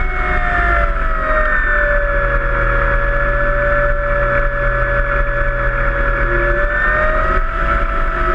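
Battery-powered electric motor and propeller of a Cessna 182 RC model seaplane whining in flight at a steady partial throttle, the pitch easing down about a second in and lifting slightly near the end, over a low rumble.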